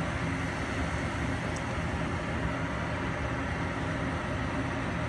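A furnace running with a steady, even hum of its fan motors.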